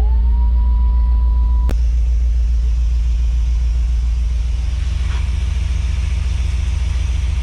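1994 GMC C3500HD truck engine idling as it warms up, a deep steady rumble. A high whine over it dips in pitch, recovers, and cuts off with a click about two seconds in.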